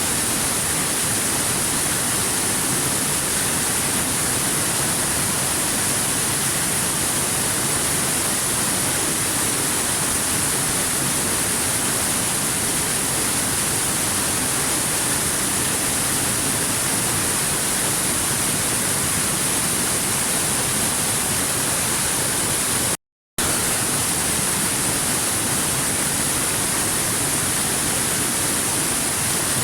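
Waterfall rushing in an even, unbroken hiss with a bright high edge. It cuts out completely for a split second about 23 seconds in, then resumes unchanged.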